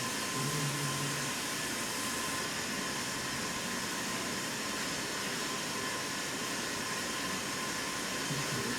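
Steady rushing noise of a small electric blower running, with a faint steady whistle in it.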